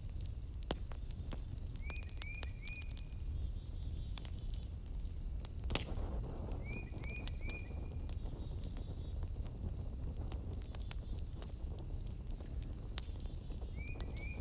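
Wood fire crackling in a fireplace with irregular sharp pops over a steady low rush. An animal's short chirps come in quick runs of three, twice, and two more near the end.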